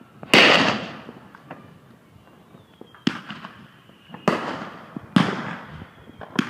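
New Year's fireworks exploding close by: five sharp bangs about a second apart, each trailing off in a fading rumble. The first, just after the start, is the loudest.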